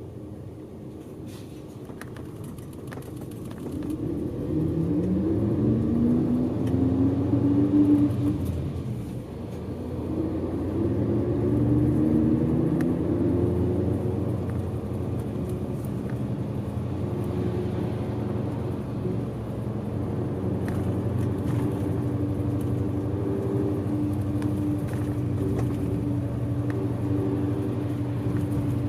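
Large bus's diesel engine heard from inside the cabin, pulling away and rising in pitch through one gear about four seconds in, easing off, then rising through the next gear about ten seconds in, and running steadily at cruising speed after that.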